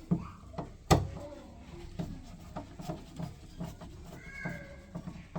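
Irregular clicks and knocks of handled hard parts, with one sharp, loud knock about a second in.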